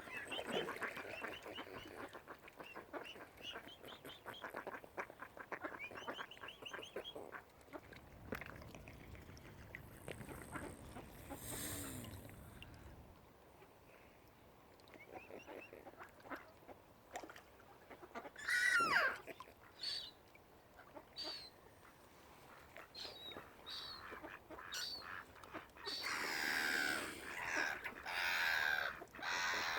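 Waterfowl calling: a run of rapid repeated calls at the start, a single loud call about two-thirds of the way through, and another run of calls near the end.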